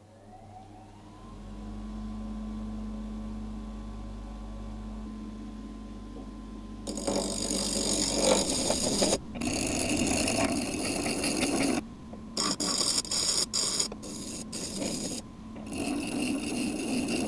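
Restored bench grinder's motor spinning up with a rising whine, then running steadily with a hum. From about seven seconds in, a workpiece is ground against the wheel in a series of loud, rasping passes with short breaks between them.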